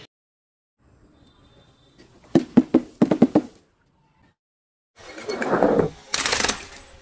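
Crunchy objects being crushed: a quick run of about six sharp cracks, then a longer crunching swell and a loud, harsh crunch near the end.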